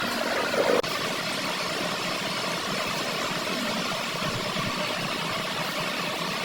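Steady mechanical running noise of a workshop machine, with a short louder sound in the first second that cuts off abruptly.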